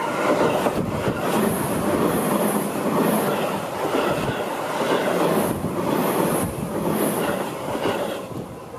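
Seibu 30000-series electric commuter train passing at close range, its wheels clattering over the rails with a dense, loud rumble. The noise drops away near the end as the last car clears.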